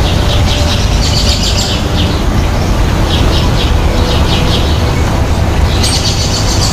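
Birds chirping in short, repeated clusters of high notes over a steady, loud low rumble.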